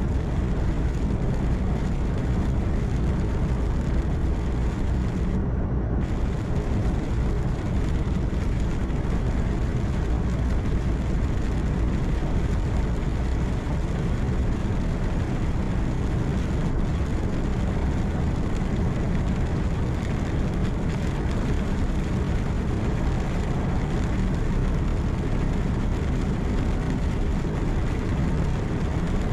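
Inside a truck's cab at highway speed: a steady hum of the engine and road noise, heaviest in the low end, without change.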